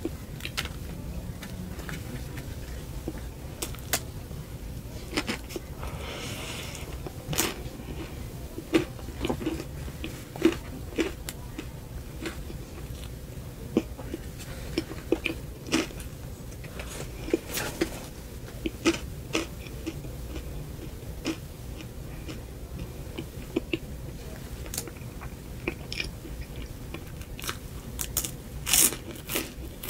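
Close-miked eating of a frosted cupcake topped with cereal rings: irregular crisp crunches and chewing sounds, denser in the second half, over a steady low hum.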